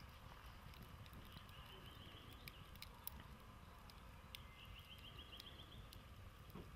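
Faint crackling of a campfire's glowing coals: scattered sharp ticks over a low background. A faint high trill is heard twice.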